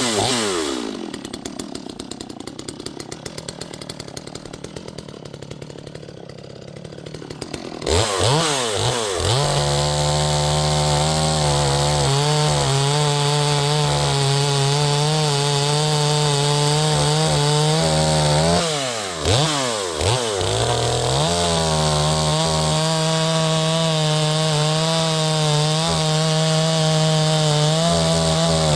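Neotec NS846 45.4cc two-stroke chainsaw idling for several seconds with a fast, even putter, then revved up about eight seconds in and held at high, steady revs. Near the two-thirds point the revs drop briefly and come straight back up.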